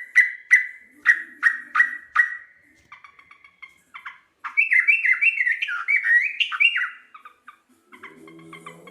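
Yellow-vented bulbul (trucuk) calling: a run of sharp repeated notes, about three a second, then after a short lull a loud bubbling, warbling phrase of quick notes that slide up and down in pitch.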